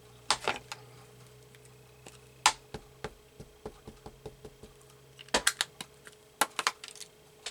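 Sharp clicks and light taps of stamping supplies being handled on a table, a clear stamp on an acrylic block. A run of quick light taps in the middle and a cluster of sharper clicks near the end.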